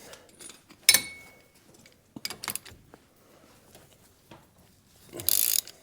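Steel hand tools clinking, with one sharp ringing metal clank about a second in and a few lighter clicks. Near the end a ratchet wrench starts clicking rapidly.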